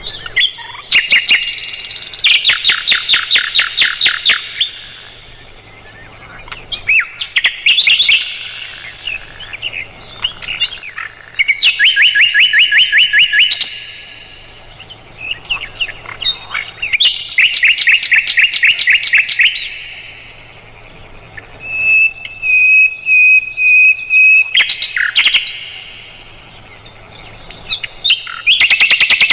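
Sikatan londo flycatcher singing: loud bursts of fast, evenly repeated trilling notes, each run lasting a couple of seconds, with short pauses between runs and a held whistled phrase with high pips about two-thirds of the way through.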